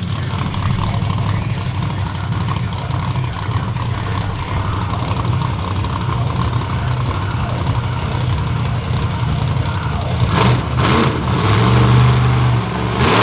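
Monster truck engine running, then revving hard with rising pitch in several surges near the end.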